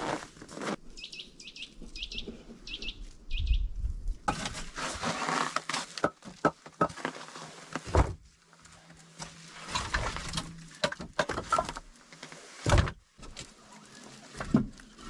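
A small bird chirps about six times in quick succession, then crunching, rustling and scraping sounds follow, with a few sharp knocks.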